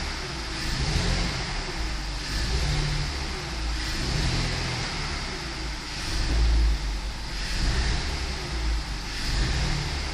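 BMW M54 2.2 straight-six engine running, its speed and loudness rising and falling in a repeating cycle about every two seconds.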